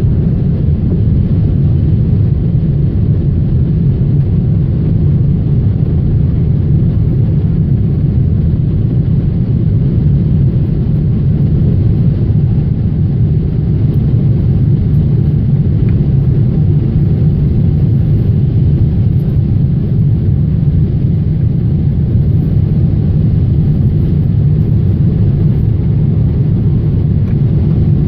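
Boeing 777 jet engines and rushing air during takeoff, a steady low rumble with no change in level.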